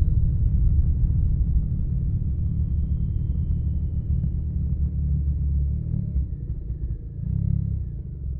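Suzuki Burgman 650's parallel-twin engine running through a Yoshimura R77 carbon full-system exhaust: a deep, steady exhaust rumble that eases off a little as the scooter slows, with a faint high whine slowly falling in pitch.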